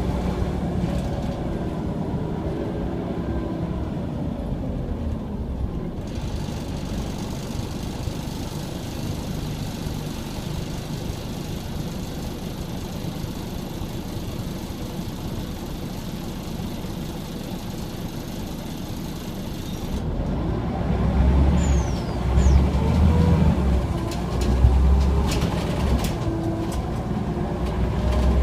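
Scania OmniCity single-deck bus heard from on board, its diesel engine running steadily under road and cabin noise. About two-thirds of the way in the engine pulls harder, and the loudness rises and falls in several surges as the bus accelerates.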